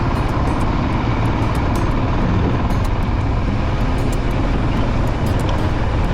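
Royal Enfield Himalayan motorcycle riding along, its engine running steadily under a heavy rush of wind on the microphone, with scattered faint ticks.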